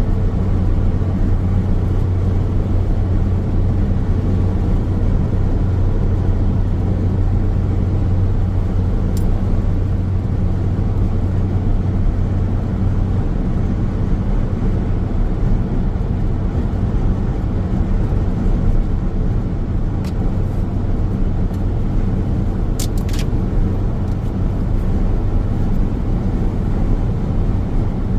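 Car driving along a road: steady road and tyre noise with a low engine drone, which eases about halfway through. A few faint ticks come through.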